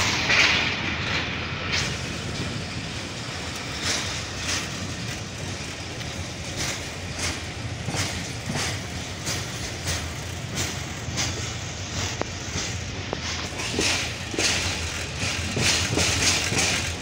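Passenger train running at speed, heard from an open coach window: a steady rolling noise of wheels on rail, broken by repeated sharp clacks as the wheels cross rail joints.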